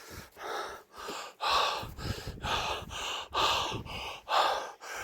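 A person breathing hard in quick, gasping breaths, about two to three a second.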